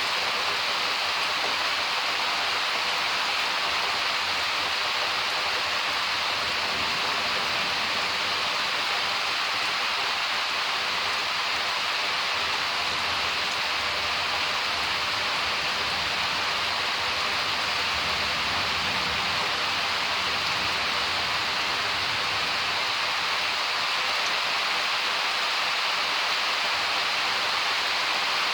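Steady heavy rain of a summer thunderstorm, an even unbroken hiss of falling water.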